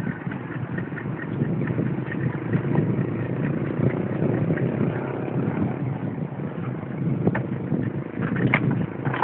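Steady low rumbling noise of riding a mountain bike, wind on the camera's microphone mixed with tyre and road noise, with a few sharp clicks or rattles near the end.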